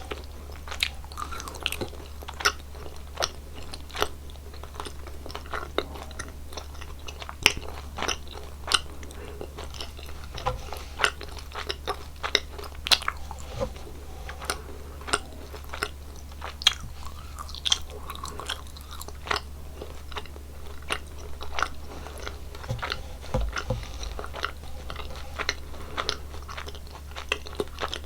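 Close-miked chewing of gummy jelly candies: many short, irregular clicks and smacks of the mouth working the sweets, with no talking.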